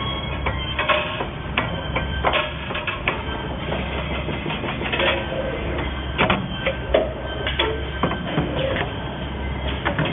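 Automatic wire-processing machine running: irregular sharp mechanical clicks and clacks, a few a second, over a steady low hum.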